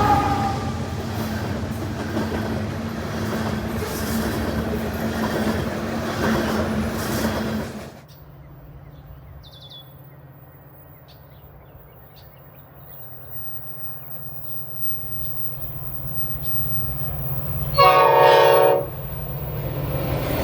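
A train passing with a steady low hum and rushing noise, which cuts off abruptly about eight seconds in. Then an approaching train's drone grows louder, and its horn sounds one loud blast of about a second near the end.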